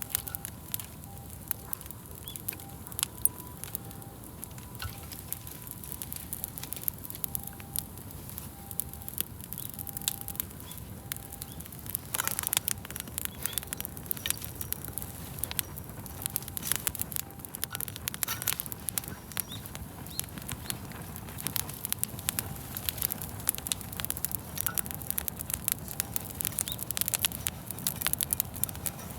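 Wood campfire crackling, with many sharp pops and snaps over a low steady rush of the flames; a brief flurry of louder pops comes about twelve seconds in.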